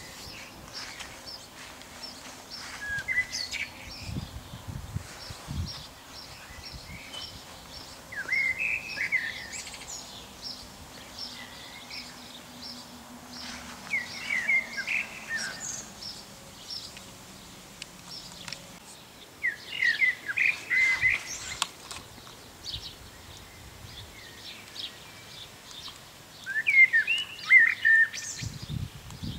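A songbird singing short warbled phrases about every six seconds, with a faint run of quick, regular high chirps between them. A few low thumps come about four seconds in and near the end.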